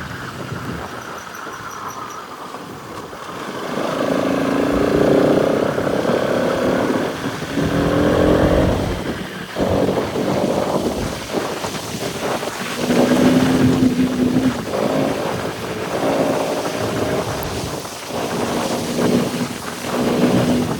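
Bajaj Pulsar RS200's single-cylinder engine on an offroad ride, revving up and easing off in repeated surges as the throttle is worked.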